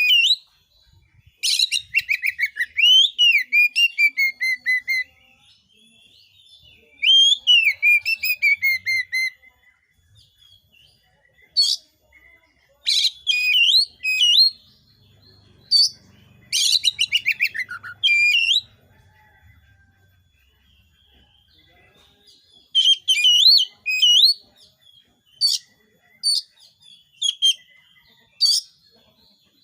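Oriental magpie-robin (kacer) singing loudly in bursts of a few seconds each. The phrases mix fast rattling trills with gliding whistled notes, and there are short pauses between the bursts.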